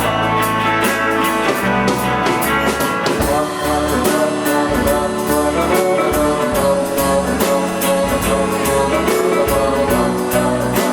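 Rock band playing live: electric guitar and bass over a steady drum-kit beat, in an instrumental passage between sung lines.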